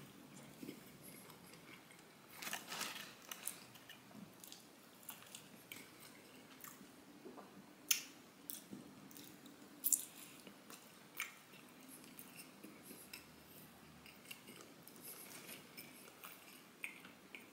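A person chewing a mouthful of grilled cheese burrito close to the microphone: faint chewing with scattered sharp mouth clicks and smacks, a cluster about two and a half seconds in and louder single ones near eight and ten seconds.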